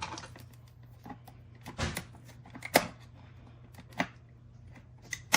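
Plastic case of a USB hard-drive enclosure being pried open by hand: scattered rustling and ticking with a few sharp clicks and snaps of its plastic clips, the loudest a little under three seconds in.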